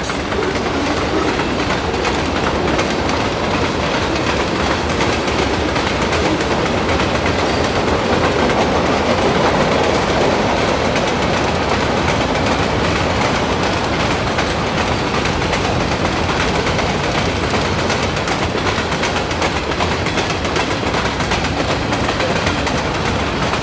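A train passing close by: a loud, steady noise of wheels running on rails with a fast, fine rattle, swelling slightly near the middle.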